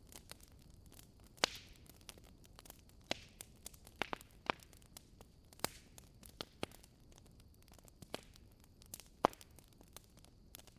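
Wood fire burning in a fireplace, crackling with irregular sharp pops and snaps over a soft low rumble. The loudest pops come about one and a half seconds in and near the end.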